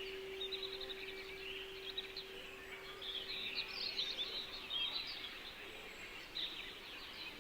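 Small forest birds chirping and twittering over a faint background hiss. A singing bowl's steady hum fades away in the first five seconds or so.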